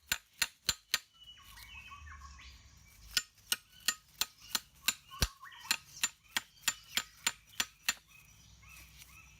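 Steady hammer taps, about three a second, sharp and ringing. They pause after about a second, resume about three seconds in and stop near the end, with short bird chirps in the gaps.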